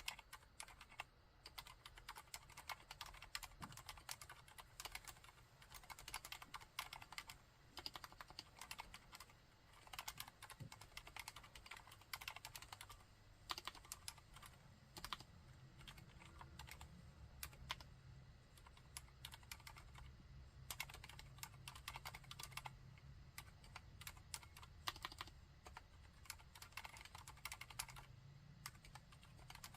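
Continuous typing on a Mistel MD600 Alpha split mechanical keyboard with Cherry MX Silent Red switches: a quiet, dense, irregular stream of muted keystrokes.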